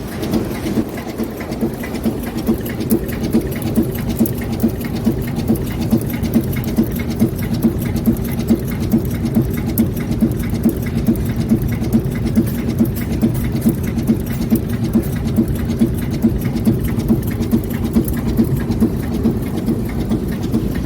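Bearing ring cold forging machine running, with a steady mechanical hum and regular forging strokes about twice a second.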